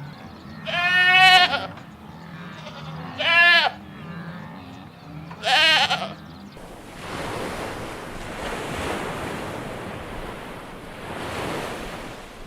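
Three short, quavering bleats from livestock in the first six seconds, then a steady rushing noise like wind or surf for the rest.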